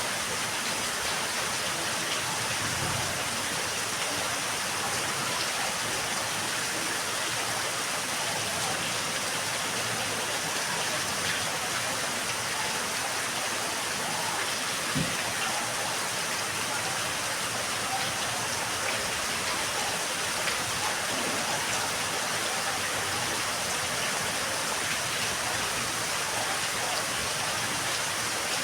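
Steady rain falling in a yard, an even hiss of drops at a constant level, with one brief low thump about halfway through.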